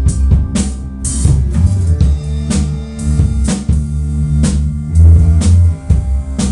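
Instrumental band music: a drum kit keeping a steady beat over bass and guitar.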